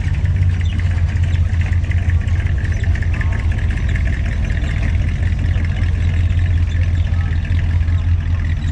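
A car engine running steadily at low speed with a deep, even hum.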